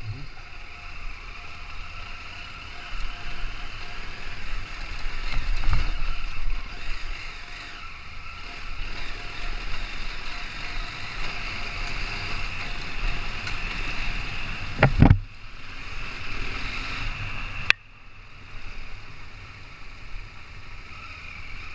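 KTM 890 Adventure R parallel-twin motorcycle running while riding off-road, with wind rushing over the microphone. There is a heavy knock about fifteen seconds in and a sharp click a couple of seconds later.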